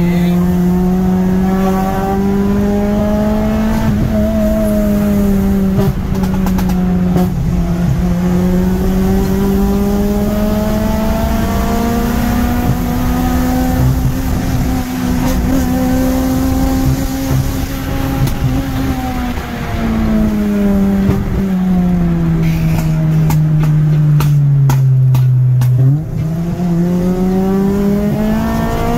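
Car engine under hard driving, heard from inside the cabin: revs rise and fall in long sweeps, then sink steadily for several seconds before jumping back up with a brief dip about 26 s in, like a downshift.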